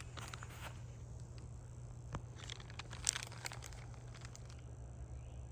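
Footsteps on dry ground, a scatter of faint irregular crackles and clicks with one sharper click about three seconds in, over a steady low hum.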